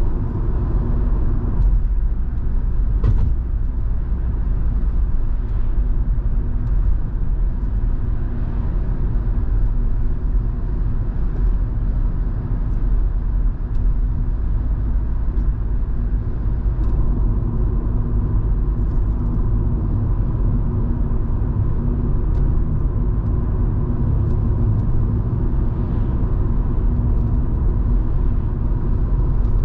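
Volvo V70 2.5T's turbocharged five-cylinder engine and road noise heard from inside the cabin while driving: a steady low drone, with a few faint ticks.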